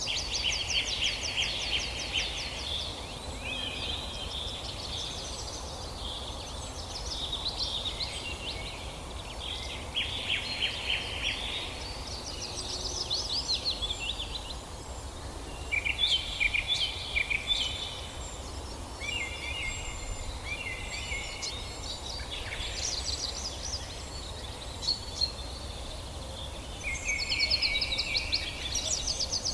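Songbirds singing in a forest: a run of quick trilled phrases, each a second or two long, following one another every few seconds, over a steady low rumble.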